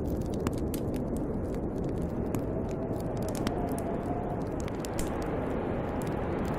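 Steady low rush of snowstorm wind with a wood fire crackling, many small sharp pops scattered through it.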